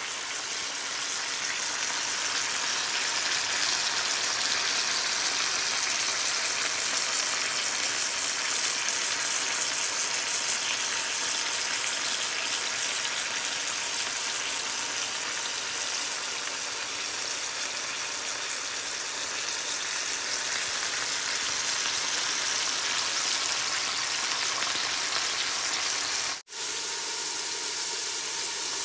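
Onions, ginger and garlic sizzling steadily in hot oil in a soup pot as they sauté. The sound breaks off for an instant near the end.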